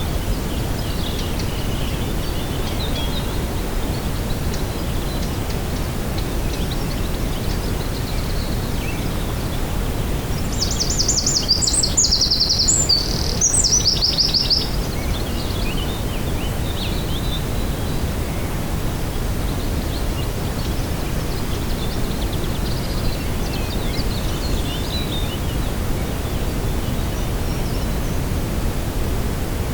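Songbirds singing over a steady low outdoor rush; one bird sings a loud, rapid trilled phrase about ten to fifteen seconds in, with faint scattered chirps before and after.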